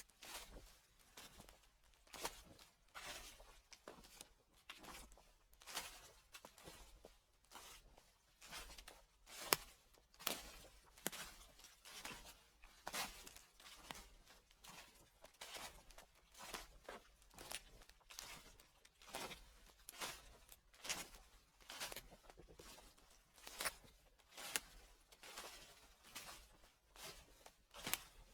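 Footsteps crunching through dry fallen leaves at a slow, even walking pace, each step a soft crackle.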